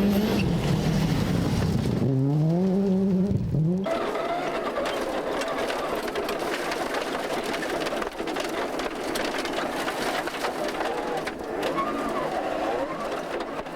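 A 1998 World Rally Car's turbocharged four-cylinder engine driven hard, its pitch climbing and dropping with throttle and gear changes. About four seconds in the sound changes to a broad rushing noise with the engine fainter underneath.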